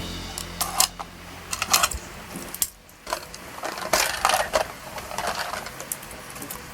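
Die-cast toy cars clinking and rattling as they are handled and knocked together, in irregular clusters of sharp clicks.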